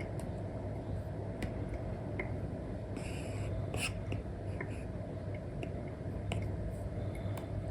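Apple Pencil tip tapping and stroking on an iPad's paper-like screen protector: scattered light clicks, with a brief scratchy stroke about three seconds in. Under it runs a steady low hum.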